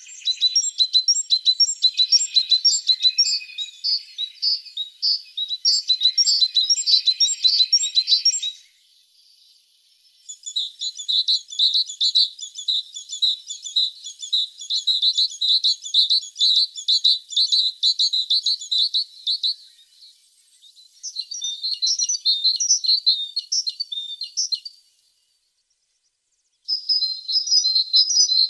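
A tit singing: four bursts of rapid, high twittering trills with short pauses between them, the second burst a long, fast trill.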